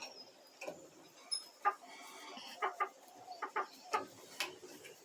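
Domestic hens clucking softly, a string of short, separate clucks scattered every half second to a second.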